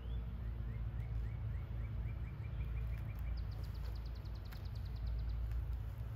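A small bird singing: a run of short rising notes that speeds up, then a fast, higher trill lasting about two seconds, over a steady low rumble.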